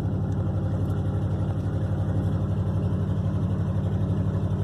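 Vehicle engine running steadily while driving, heard from inside the cab: a low, even drone with a fast, regular pulse.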